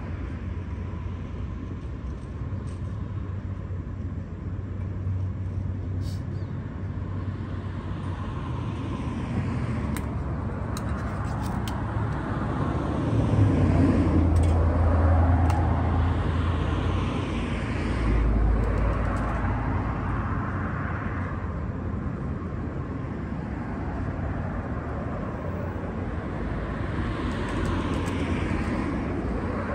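Road traffic: a steady rumble of vehicles, with several passing by in turn. The loudest pass is about halfway through, with another a few seconds later.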